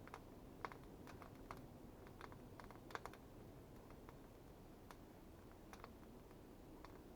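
Faint, irregular sharp clicks and ticks, a dozen or so, bunched in the first three seconds and sparser after, over a low steady background noise.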